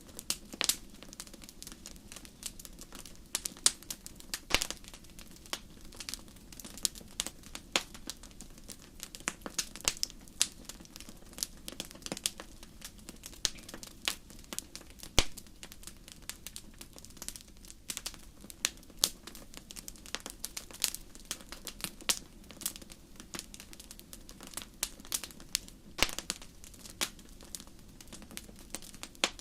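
Wood fire crackling in a fireplace: irregular sharp pops and snaps, a few much louder than the rest, over a soft steady hiss.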